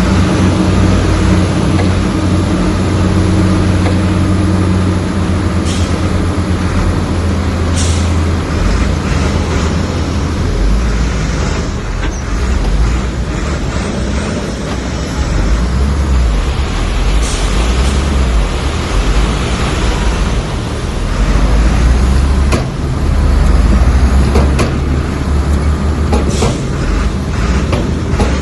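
Heavy diesel earthmoving machinery running under load, the low engine note rising and falling, with a few short sharp sounds scattered through.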